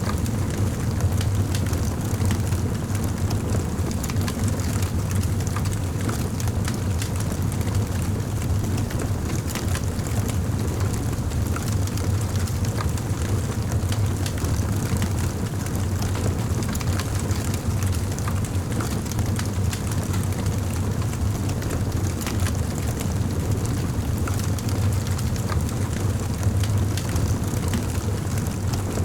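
Wood fire in a fireplace crackling, with frequent small sharp pops over a steady low rumble of the flames.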